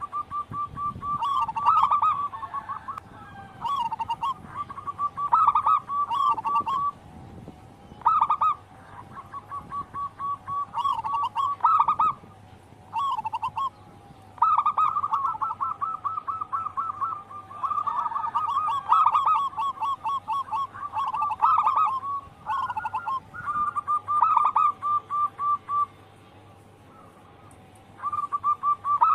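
Zebra doves (perkutut) of the local strain singing vigorously. Each phrase is a run of rapid staccato coos, one phrase after another with short pauses between them.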